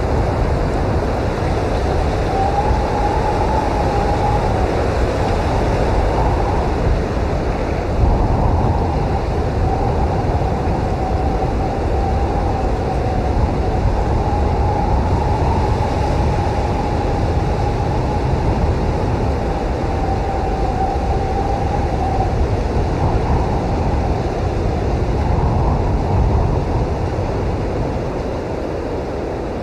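Snowstorm wind blowing hard and steadily, with a faint wavering howl that rises in and out through much of it.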